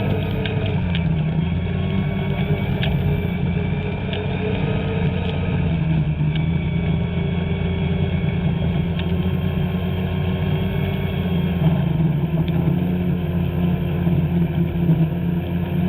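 Two-stroke snowmobile engine running at a fairly steady speed, its pitch wavering only slightly.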